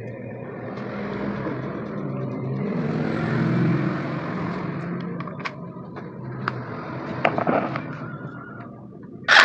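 A passing vehicle's engine swells and fades over several seconds, followed by scattered light clicks of tools on metal and a short loud burst near the end.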